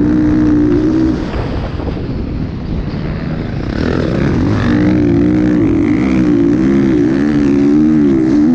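Motocross motorcycle engine revving hard, its pitch rising and falling repeatedly over rough, noisy running. The engine note falls back about a second in and climbs again from about four seconds in.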